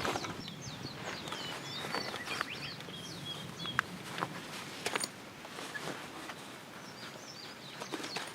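Small birds chirping outdoors: a quick run of short high calls over the first few seconds and a few more near the end, with occasional sharp clicks and knocks between them.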